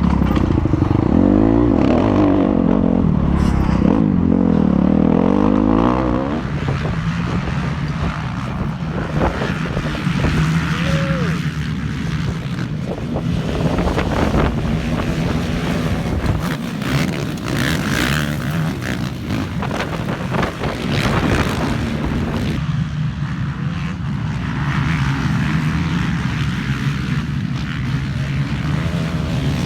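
Dirt bike engine running hard, its revs swinging up and down for the first six seconds, then running steadier, with scattered knocks and rattles as the bike rides over rough ground.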